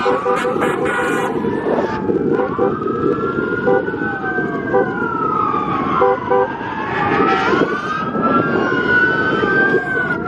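Several emergency-vehicle sirens wailing at once, their rising and falling tones overlapping, over the steady rumble of vehicles on the road.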